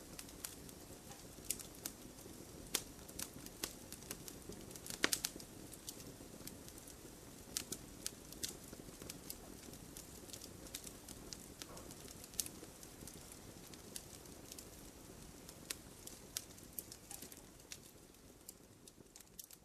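Wood fire crackling: a steady low hiss of burning with frequent sharp pops and snaps, the loudest cluster of pops about five seconds in. The sound fades down near the end.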